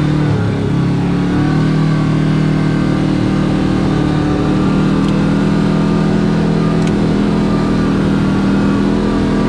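Can-Am Maverick X3 side-by-side's turbocharged three-cylinder engine running steadily at low to moderate speed on a trail, with a small rise in pitch about a second and a half in.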